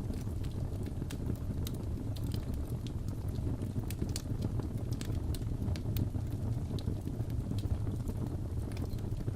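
Crackling fireplace: a steady low rumble of burning fire with frequent irregular sharp pops and crackles from the wood.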